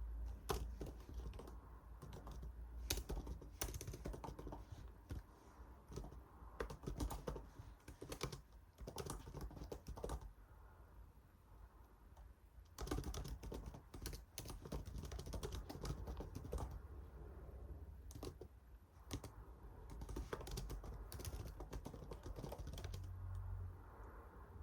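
Typing on a computer keyboard: runs of quick key clicks in bursts, with a pause of about two seconds near the middle.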